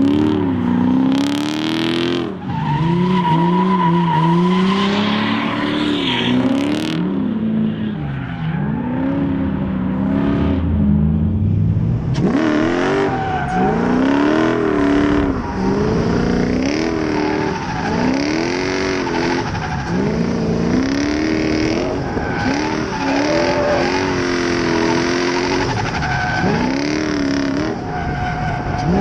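Drift car's engine revving up and down over and over as it is driven through a drift, with tyre squeal and skid noise in the first several seconds.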